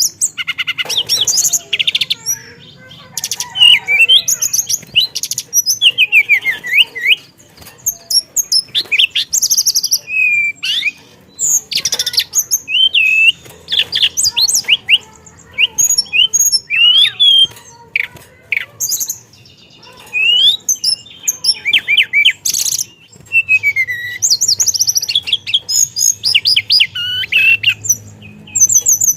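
Teledekan songbird singing continuously, with a rich, varied song of quick whistled glides and rapid trills. The phrases follow one another with only short pauses.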